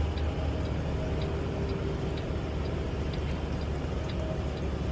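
Semi truck cab at highway speed: the steady rumble of the engine and road noise, with a faint, even ticking about twice a second.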